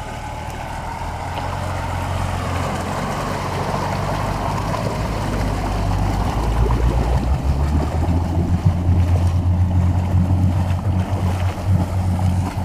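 A UAZ 4x4's swapped-in Nissan Patrol engine running under load as the vehicle ploughs through deep water, with water churning and splashing around it. The engine grows steadily louder.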